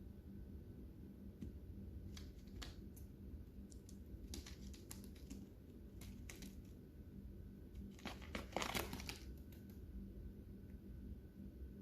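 Lovebirds cracking and husking seeds: scattered small clicks and crunches, with a louder rustling crunch lasting about a second, a little past two-thirds of the way through.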